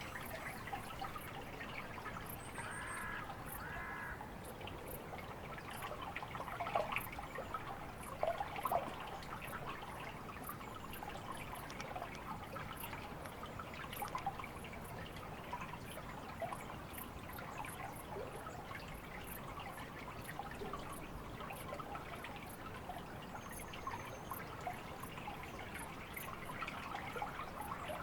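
Faint trickling and dripping water with scattered small ticks; a bird calls twice about three seconds in.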